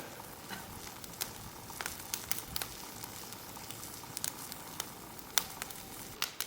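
Food sizzling on an iron griddle plate set over a wood fire: a steady hiss broken by scattered sharp pops and crackles.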